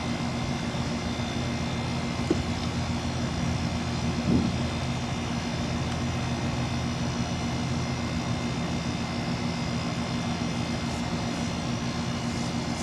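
2021 Goodman GSX 2.5-ton air-conditioner condensing unit running, a steady hum from its rotary compressor and condenser fan. There is a brief knock about two seconds in and a soft thump about four seconds in.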